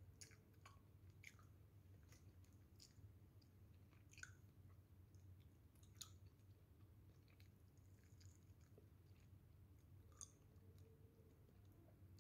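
Faint chewing with scattered small mouth clicks at irregular intervals, from a person eating pigeon stuffed with freekeh.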